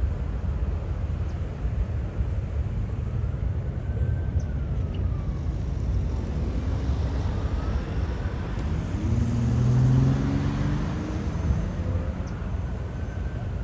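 Steady low rumble of traffic and a departing jet, with wind on the microphone; a road vehicle's engine swells past about nine to ten seconds in. A faint ambulance siren wails, rising and falling, in the background.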